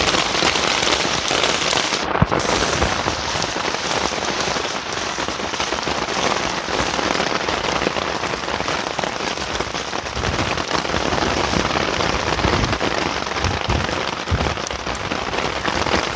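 Steady heavy rain falling on surfaces, with a single sharp knock about two seconds in.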